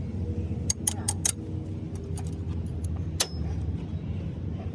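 Sharp metallic clinks of tools or metal parts being handled, several in quick succession, over a steady low hum.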